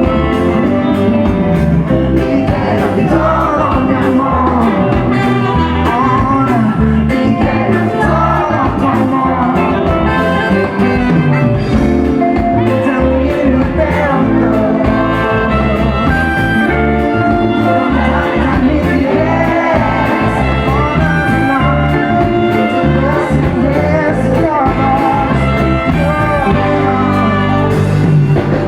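Live reggae band playing, with a lead singer over bass, drums and instruments; the recording is loud and dense.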